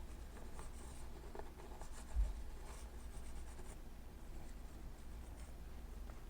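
Faint scraping and dabbing of a palette knife laying oil paint onto a canvas, with one dull low thump about two seconds in.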